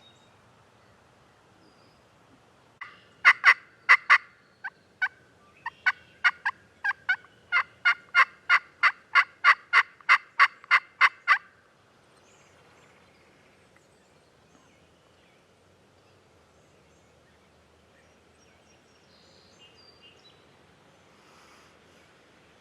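Turkey yelping: a run of sharp, evenly spaced notes, starting with a burst of four loud ones, then a steady string of about two to three a second that stops abruptly about 11 seconds in.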